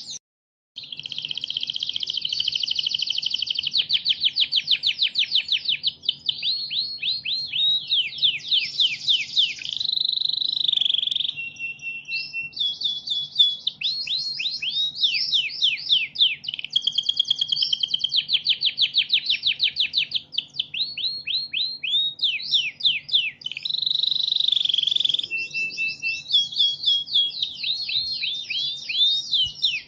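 Domestic canary singing a long, continuous song of rapid trills and rolling phrases, each a fast run of repeated notes, switching to a new phrase every second or two. The song breaks off briefly just at the start, then runs on without pause.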